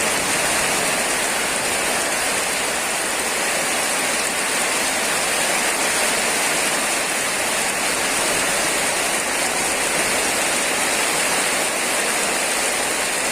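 Rain falling steadily, an even hiss of water with no break or change.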